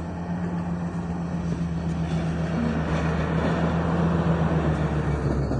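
A motor vehicle engine running steadily with a low hum, under a rushing noise that slowly grows louder.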